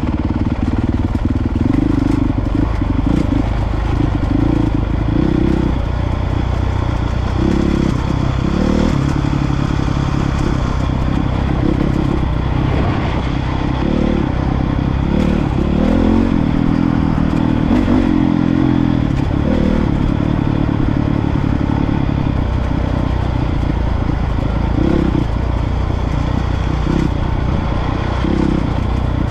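Honda CRF450R dirt bike's single-cylinder four-stroke engine running under changing throttle, its note rising and falling, with clatter from the bike, heard through a mounted action camera.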